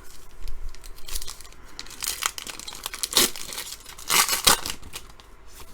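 Wrapper of a trading card pack being torn open and crinkled by hand, in several rustling bursts, the loudest about two, three and four seconds in.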